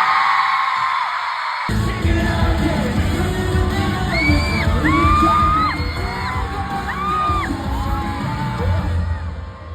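Pop music with singing. A heavy bass beat comes in abruptly about two seconds in.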